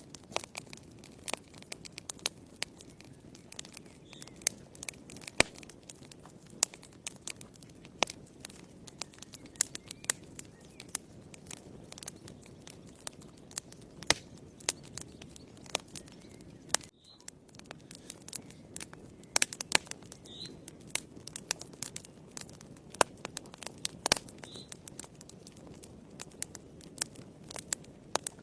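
Wood fire burning in a fireplace: irregular sharp crackles and pops from the burning logs over a steady low hiss of the flames.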